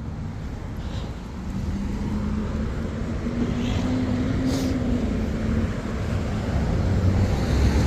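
Highway traffic passing close by: engine and tyre noise, with one engine's drone held for a few seconds in the middle, and the low rumble growing louder near the end as a heavier vehicle comes by.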